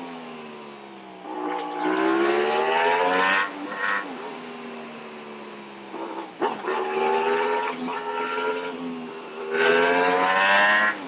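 Sport motorcycle engine, the Aprilia RS 457's parallel twin, pulling under throttle. The revs climb, fall back and climb again several times, with brief dips as the gears change.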